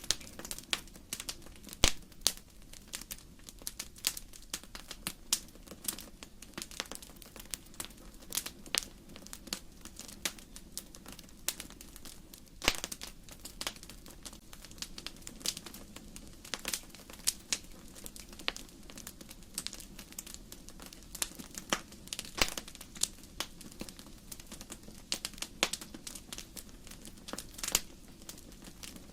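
Burning firewood in a fireplace crackling: irregular sharp snaps and pops, a few loud ones among many small ones, over a steady low background.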